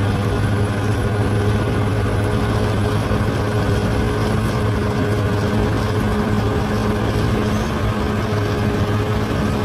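Large bulldozer's diesel engine running with a steady, unchanging deep drone.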